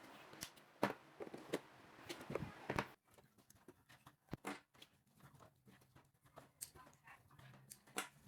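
Scattered light clicks and taps, with no steady motor or fan sound. A steady hiss under the first three seconds cuts off abruptly.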